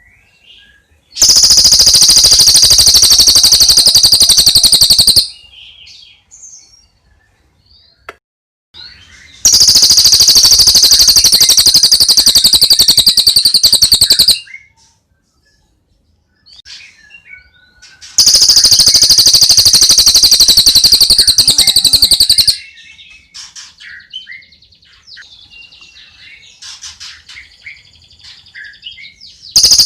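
Bird song: a loud, very fast high-pitched trill in bursts of about four seconds, repeated four times, with faint scattered chirps in the gaps between them.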